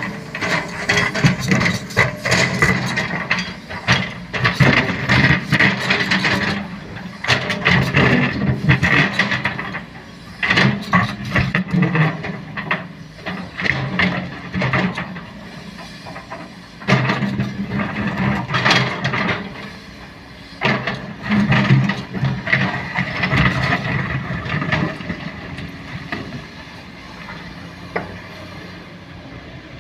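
Sany SY215C excavator working: its diesel engine runs under load while the hydraulics and bucket clank, rattle and scrape on soil and stone. The clanking comes in irregular bursts and dies down over the last few seconds, leaving the engine running.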